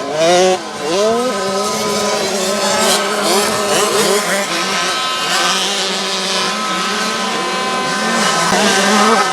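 Two-stroke 65cc motocross bike engines racing: the revs sweep up and down in the first second or so, then hold at a high, steady pitch.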